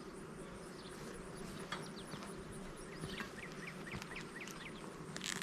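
Honeybees buzzing over an open hive as a steady hum, with a bird chirping a quick run of short notes through the middle, and a brief hiss at the end.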